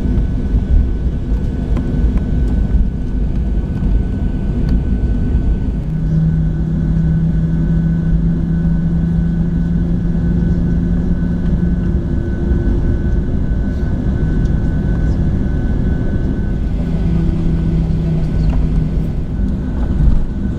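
Cabin noise of a Boeing 737-700 on the ground after landing, its CFM56-7B engines at idle: a steady deep rumble with a constant thin whine. A lower hum comes in about six seconds in, fades out, and returns briefly near the end.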